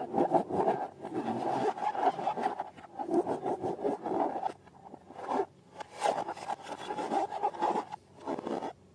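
Slime being squeezed and worked by hand: irregular squishing and rubbing, in uneven bursts, that stops abruptly near the end.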